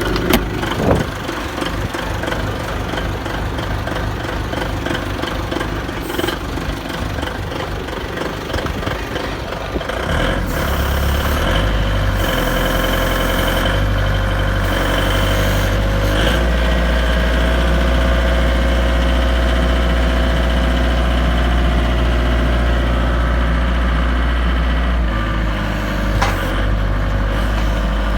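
Three-ton forklift engine running: a lower, rougher idle for about the first ten seconds, then it speeds up and holds at a louder, steady higher speed, easing off briefly near the end.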